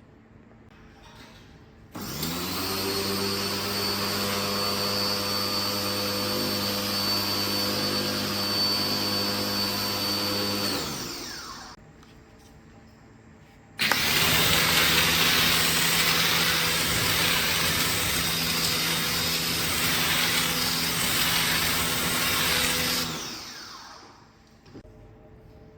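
A small electric motor runs twice for about nine seconds each, with a steady whine over a rushing hiss. It spins up at the start of each run and winds down at the end; the second run is more hissy.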